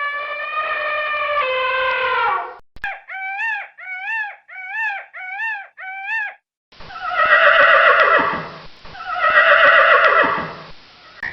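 A run of different animal calls: one long pitched call, then six short calls that each rise and fall, then two long, rough calls near the end.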